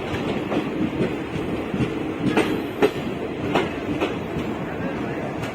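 Gujarat Superfast Express passenger coaches running along the track: a steady rumble with irregular clattering knocks as the wheels cross rail joints.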